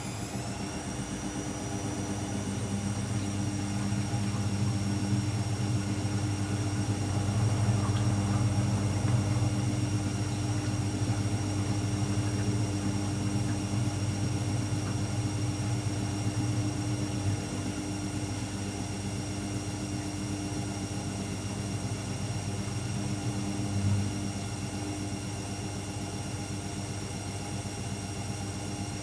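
AEG Electrolux Lavamat L74810 washing machine spinning: the motor's high whine finishes climbing in pitch about a second in and then holds steady over a low drum rumble.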